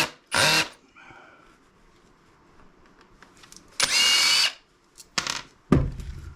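Power drill/driver run in short bursts on a stubborn fastener that won't come loose: two half-second whirs at the start and a longer one about four seconds in, with a sharp knock near the end.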